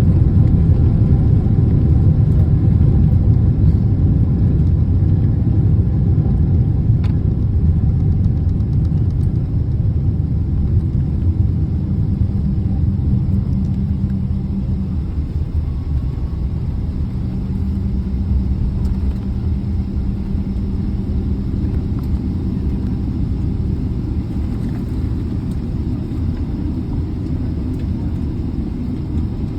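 Boeing 777 cabin rumble on the ground just after landing, a steady low roar from engines and wheels that slowly grows quieter as the airliner slows.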